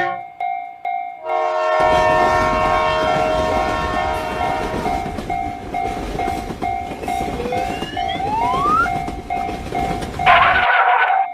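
Railroad-crossing alarm bell ringing in a steady pulse, about two strokes a second. A train horn sounds just over a second in, and a train passes with a running rumble and clatter. A short second horn blast comes near the end, then the train noise cuts off suddenly, leaving the crossing bell.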